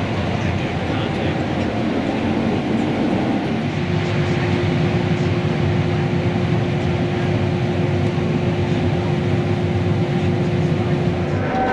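Heavy farm machinery running steadily, a constant engine and drivetrain drone. A steady hum joins it about four seconds in and drops out near the end.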